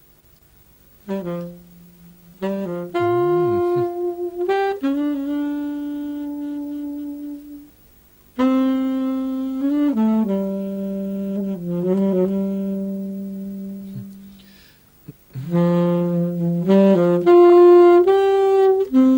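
Saxophone playing a slow melody of long held notes in three phrases, with short gaps between them: background music.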